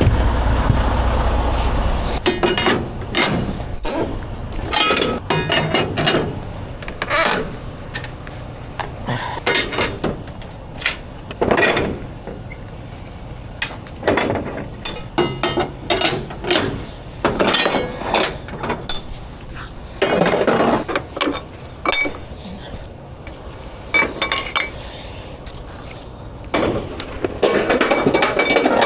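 A low engine rumble that stops abruptly about two seconds in. It is followed by a long run of light metallic clinks, clicks and knocks at uneven intervals, as hard objects are handled.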